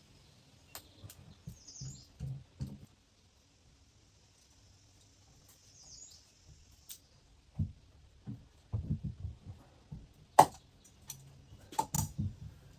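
Scattered knocks and dull thumps of work on wooden cabinets, with two sharp clicks near the end. Faint high chirps sound in the first half.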